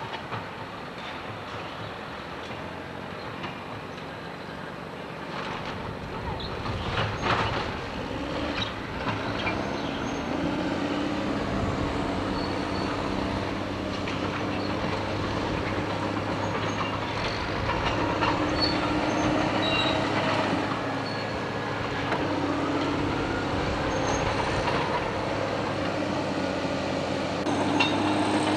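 Diesel freight locomotive and train running, with a steady low engine drone that sets in about eight seconds in over rolling train noise and a few sharp clanks.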